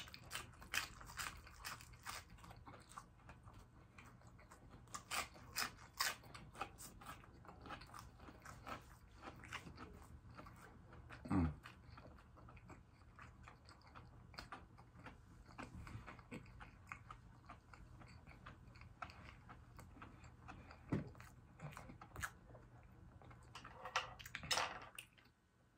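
Close-up crunching and chewing of fried, breaded butterfly shrimp, with many crisp bite and mouth clicks. A brief low mouth sound comes about eleven seconds in, and there is a flurry of crunching near the end.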